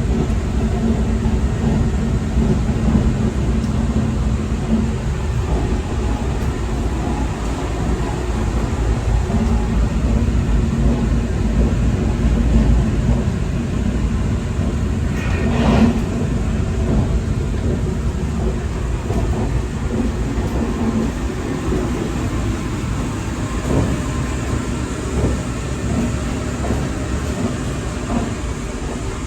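EMU3000 electric train running at speed, a steady low rumble of the wheels on the rails. A single short knock comes about halfway through.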